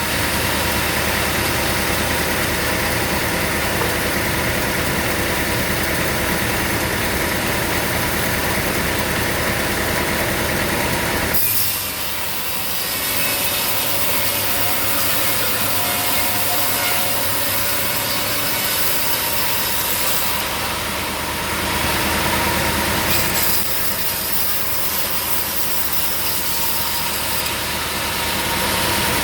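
Sawmill running, its engine-driven saw cutting through wood with a steady noise. About twelve seconds in the low engine hum drops back and a brighter hiss takes over, and the fuller lower sound returns near the end.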